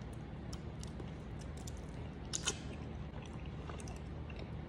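A person chewing a mouthful of ogbono soup and meat with soft, wet mouth clicks, and a sharper smack about two and a half seconds in.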